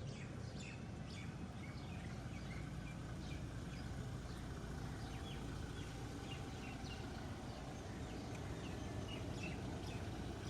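Small birds chirping repeatedly in short high calls over a steady low background rumble.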